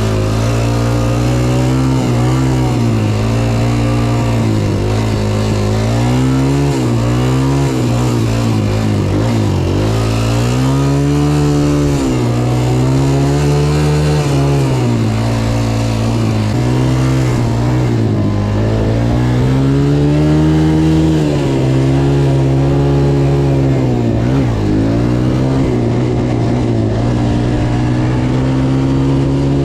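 Motocross dirt bike engine being ridden hard, its pitch rising and falling every few seconds as the throttle is opened and shut through the turns and straights.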